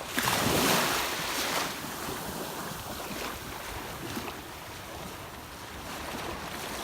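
Ocean surf washing in with wind on the microphone: a louder rush in the first second and a half, then a steady wash.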